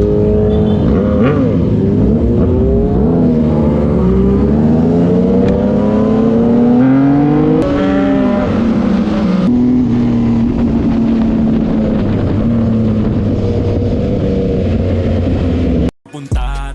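Motorcycle engine revving: the pitch climbs and falls several times, then holds steady from a little past halfway, and the sound cuts off abruptly near the end.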